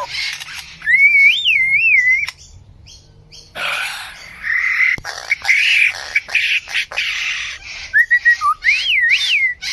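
A bird calling in a varied sequence: a whistled, warbling phrase that rises and falls, then a run of harsh, rasping notes and sharp clicks, then another whistled phrase near the end.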